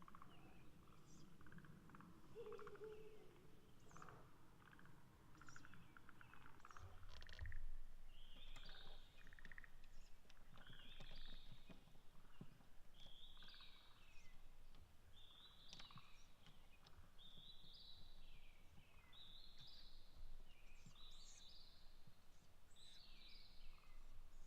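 Ural owl chicks giving faint, high begging calls that repeat about once every second and a half from about a third of the way in. Scattered faint chirps and clicks come before them.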